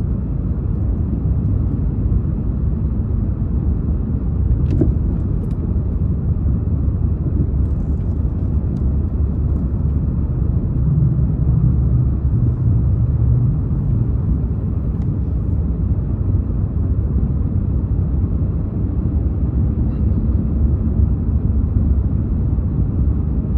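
Steady low rumble of a car driving on snowy city streets, heard from inside the cabin, with a couple of faint clicks about five seconds in.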